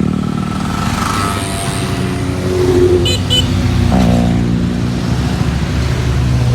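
Motorcycle engines running at close range, their pitch shifting up and down as the bikes rev and move. Two short high-pitched chirps sound about three seconds in.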